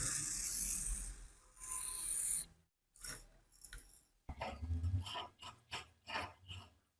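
Workshop hand-work noise: a hiss for about the first second and a shorter one soon after, then a run of quick rasping scrapes, about four a second, in the second half.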